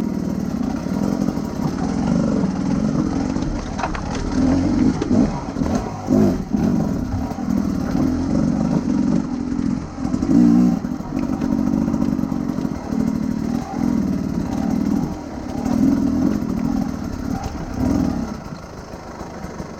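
Big adventure motorcycle engine running under way, its note swelling and easing as the throttle opens and closes; it quietens near the end.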